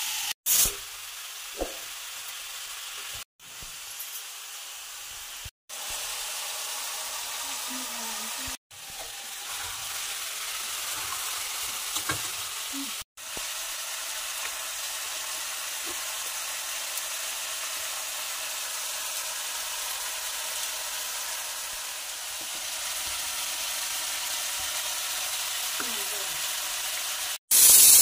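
Chicken pieces sizzling steadily as they fry in a steel kadhai, with an occasional scrape of a steel spatula stirring them. The sound cuts out briefly a few times.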